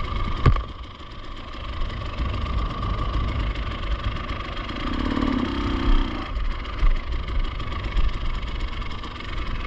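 Enduro motorcycle engine idling steadily, with a single sharp knock about half a second in.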